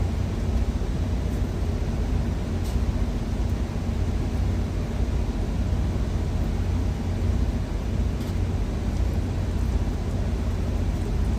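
Steady low rumble of an idling truck engine, with a few faint clicks.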